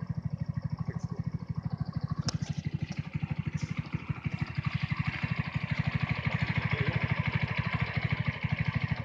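150cc GY6 four-stroke single-cylinder engine idling with a steady, even pulse, running smoothly on a freshly cleaned carburettor. A single sharp click comes about two seconds in, and the engine grows a little louder about halfway through.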